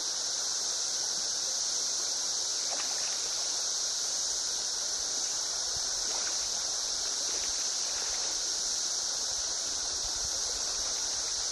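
Steady high-pitched drone of a cicada chorus, with a flowing river beneath it.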